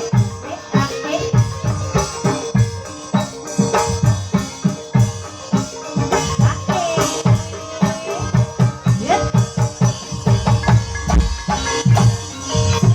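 Live ebeg (kuda kepang) dance music: drums beating in an even, quick rhythm over tuned percussion, with a steady held tone and a brief pitched melodic line about halfway through.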